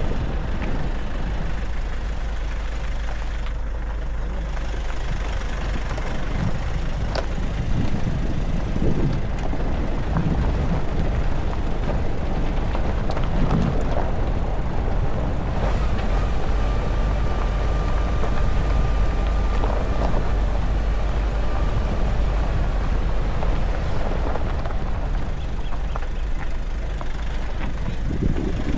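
Nissan Navara pickup driving downhill: a steady low rumble of engine and road noise, with a thin high whine for several seconds past the middle.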